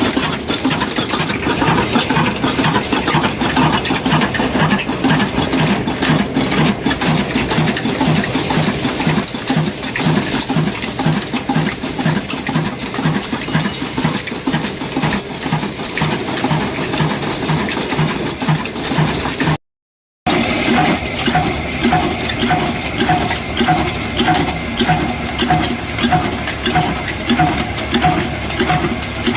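Old slow-speed stationary engine running steadily at low revs, each firing beat coming about two to three times a second over a constant hiss. The sound cuts out completely for about half a second about two-thirds of the way through, then the same steady running resumes.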